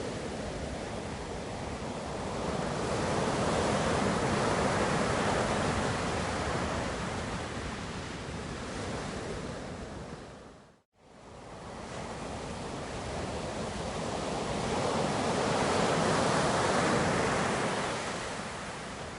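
Ocean surf: waves washing in and receding as a steady rush, swelling twice. The sound fades out briefly to silence near the middle and fades back in.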